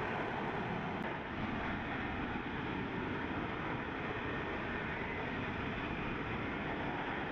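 F-35 Lightning II fighter jet's engine running with a steady, even roar.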